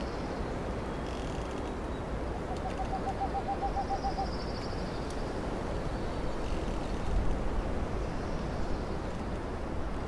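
Boreal forest ambience with a steady low rumble. About two and a half seconds in, a bird gives a rapid, evenly spaced series of about a dozen low notes lasting under two seconds, overlapped at its end by a thin high trill from a small songbird. About seven seconds in, a brief louder swell of low rumble.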